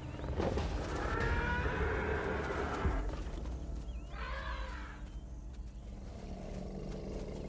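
Wild animal calls: a loud, long call with a high, strained tone, then a shorter call about four seconds in, over a low steady rumble.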